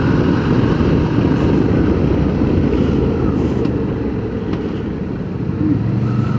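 Motorcycle running steadily on the move, its engine hum mixed with wind and road noise, easing slightly about four seconds in before picking back up.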